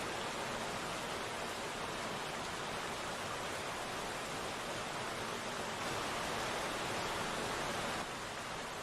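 Steady rain falling, an even hiss with no separate drops standing out. It swells slightly about six seconds in and eases back near the end.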